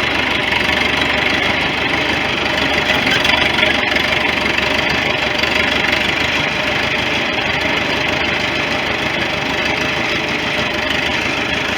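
1973 International 3444 loader tractor's engine running steadily with the throttle opened up, loud and even.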